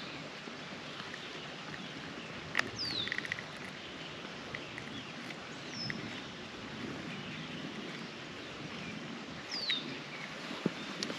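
Outdoor pond ambience: a steady hiss, with a bird calling short, falling whistles a few times. There are also a few light clicks and knocks, about two and a half seconds in and near the end.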